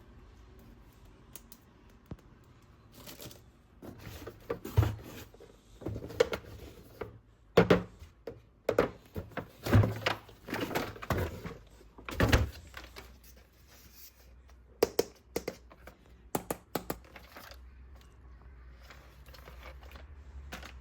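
Plastic toys and their packaging being handled: irregular knocks, thumps and clicks with some crinkling, the loudest in the middle stretch and dying away near the end.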